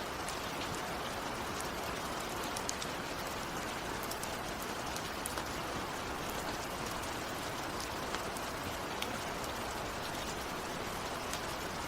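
Steady heavy rain falling, a constant hiss with many fine drop ticks.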